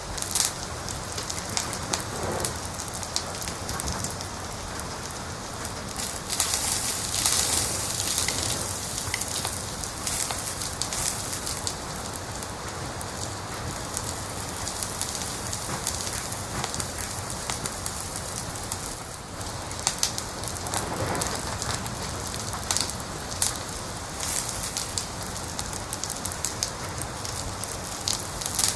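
Fire in a fireplace crackling steadily, with frequent sharp pops and a denser, louder flurry of crackles about six to eight seconds in.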